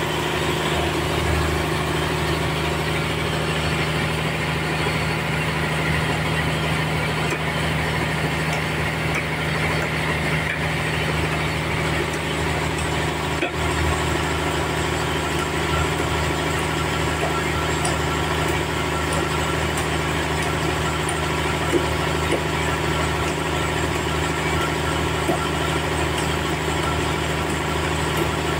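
Sawmill engine running steadily with a low, even hum.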